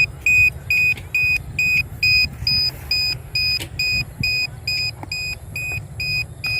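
Low-battery alarm on a homemade RC plane's flat battery pack, beeping rapidly and evenly at a high pitch, about two and a half beeps a second, over a low rumble. The alarm signals that the battery has run down.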